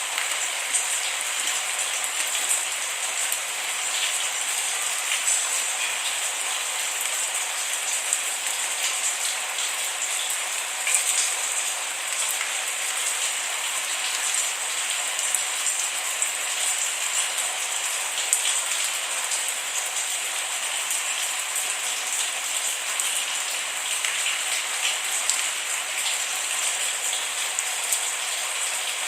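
Steady rain with no thunder: a constant hiss of rainfall, sprinkled with many small drop ticks.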